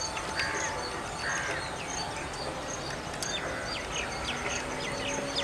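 Birds chirping: a regular run of short high chirps, about two a second, with scattered quick falling calls over a faint outdoor hiss.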